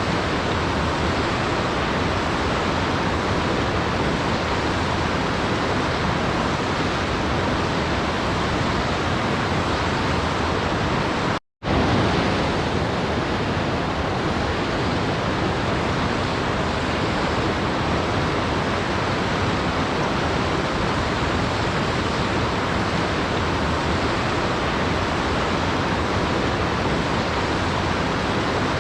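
Steady rushing of a waterfall, an even wash of water noise with no change in level. About eleven and a half seconds in it cuts out abruptly for a fraction of a second, then resumes as before.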